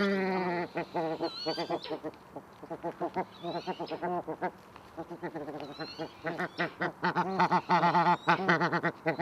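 A group of bar-headed geese honking, many short nasal calls in quick succession, overlapping and getting louder near the end.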